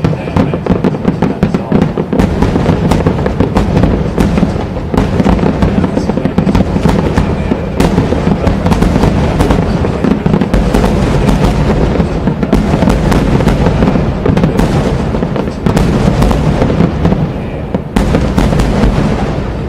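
Dense fireworks barrage: many aerial shells bursting in rapid, overlapping bangs and crackles, dying away near the end.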